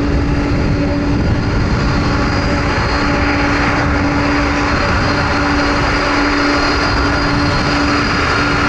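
Boeing 747-400 freighter's four jet engines running loud and steady, with a steady whine over the rush of the engines.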